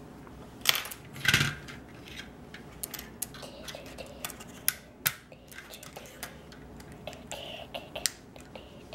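Small hard-plastic Lego pieces being handled: a string of light clicks and clatters, with the loudest knocks about a second in.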